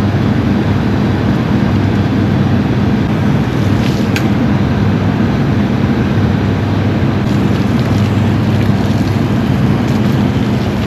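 Water spraying steadily from a hose, over a steady low hum.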